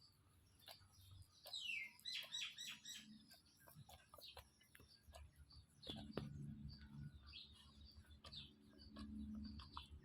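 Faint high-pitched chirps and squeaks from a small animal: a falling squeal and a quick run of chirps about two seconds in, then scattered short chirps, over a low hum.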